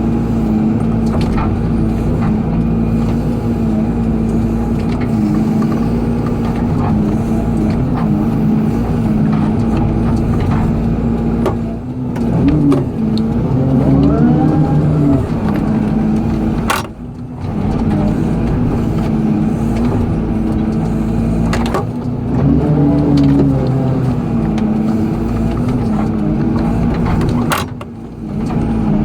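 Excavator diesel engine running steadily under load. Its note shifts and glides up and down twice, about twelve seconds in and again about twenty-two seconds in. Two brief sharp clicks come with short drops in level.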